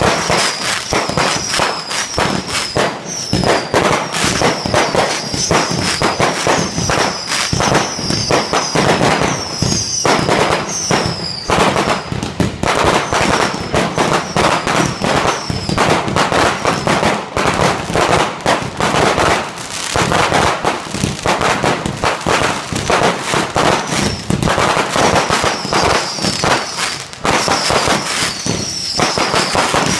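Fireworks display: a dense, unbroken barrage of aerial shell bursts and crackling stars. Runs of short, high whistles falling in pitch sound through the first dozen seconds and again near the end.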